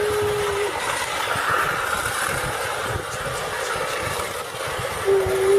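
Battery-operated toy train running, its small motor and wheels giving a steady rattling hum. A single steady tone stops about half a second in and sounds again near the end.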